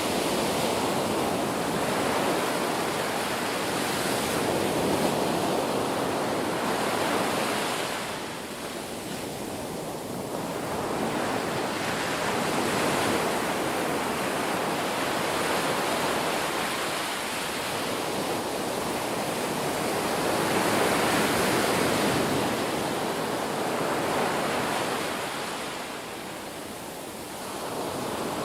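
Ocean surf breaking and washing continuously, swelling and easing back in long surges. It softens for a few seconds about a third of the way in and again near the end.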